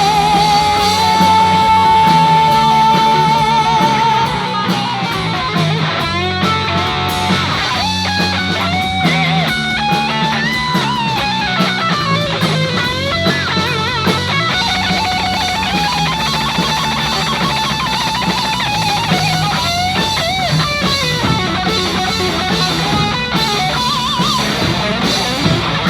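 Live rock band with an electric guitar solo. The lead guitar holds a long note with wide vibrato for the first few seconds, then plays fast runs over bass and drums.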